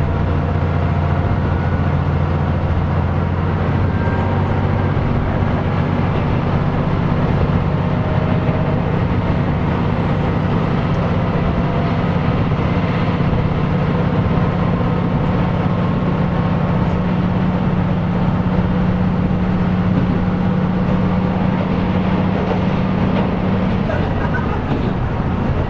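KiHa 125 diesel railcar under way, its diesel engine running over the rumble of the wheels on the rails. The engine note steps up about five seconds in as it works harder, holds steady, and falls back near the end as power is eased off.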